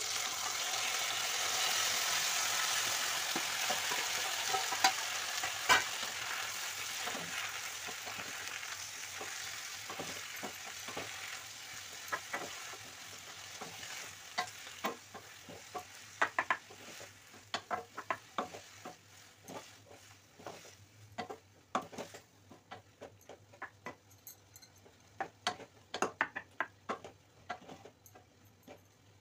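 Chopped tomatoes dropped onto hot oil and onions in a kadai: a loud sizzle starts suddenly and slowly dies away over the first half. A wooden spatula stirs throughout, and its clicks and knocks against the pan are what remain once the sizzle has faded.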